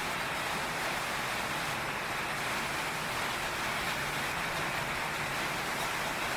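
Heavy rain pouring steadily on a tin roof, an even hiss with no thunderclap in it.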